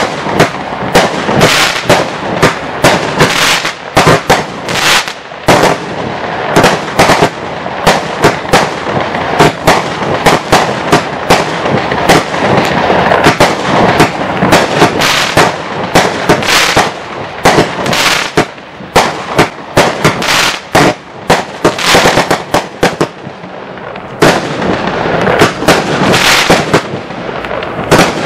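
activFire 'Big Show' fireworks compound cake (156 shots, 30 mm calibre) firing a rapid, uneven string of loud shots and bursts in the air.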